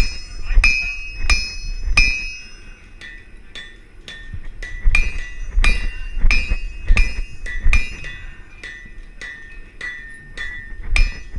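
Steady rhythm of hammer blows on an anvil while cutting a high-carbon steel bar, about one and a half strikes a second, each with a bright metallic ring. The blows are lighter for a couple of seconds after the first four, then heavy again.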